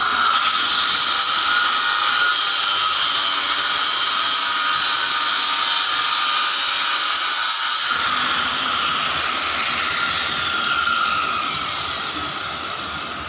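A high-speed power tool motor runs steadily with a hissing whine. About eight seconds in it is switched off and winds down, its pitch falling as it slows.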